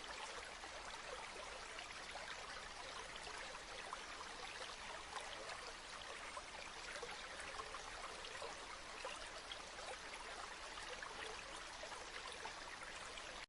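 Gently flowing river water: a steady, even babble and trickle.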